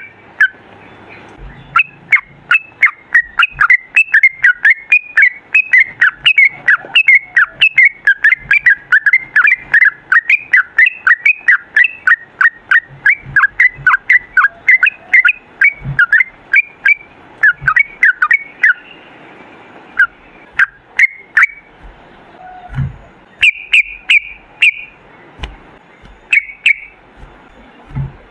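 Yellow-vented bulbul (trucukan) singing a long, fast run of chattering notes, several a second. It thins to scattered phrases with short gaps from about two-thirds of the way in, with sharp clicks throughout.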